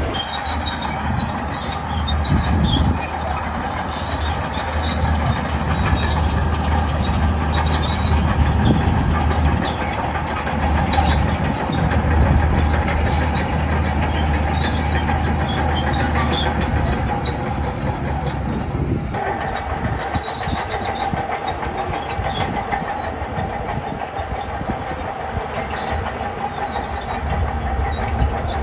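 Shantui crawler bulldozer at work: its diesel engine runs steadily under load while the steel tracks clank and squeal. The sound shifts abruptly about two-thirds of the way through.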